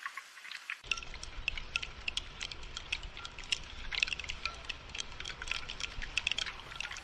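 Raindrops pattering and dripping in quick, irregular ticks. From about a second in, a low rumble sits underneath.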